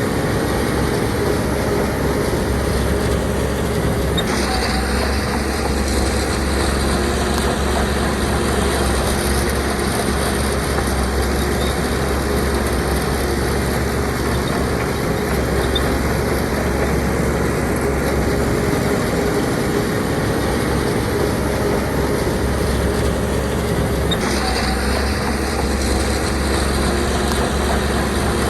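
Heavy diesel earthmoving machinery running steadily, with a change in its sound about four seconds in and again near the end.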